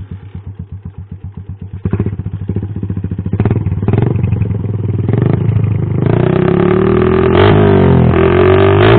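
Yamaha Sniper 135 single-cylinder four-stroke motorcycle engine breathing through an aftermarket exhaust during a sound check. It idles with a rapid even beat, is blipped a couple of times, then from about six seconds in is revved hard with the pitch rising and falling.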